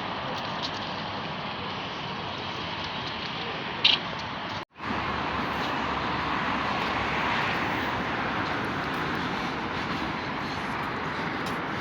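Steady road and engine noise of a UAZ Patriot driving along. A brief sharp click comes just before four seconds in, and the sound drops out for an instant a moment later, then resumes unchanged.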